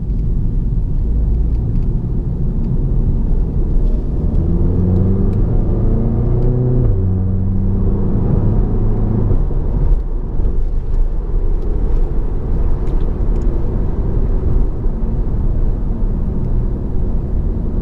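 Audi TT 2.0 TFSI turbocharged four-cylinder engine heard from inside the cabin, pulling hard with a rising note for a few seconds, then dropping in pitch at a quick S tronic dual-clutch upshift about seven seconds in. After that it runs on more steadily, with a few small cracks from the exhaust at the gear changes.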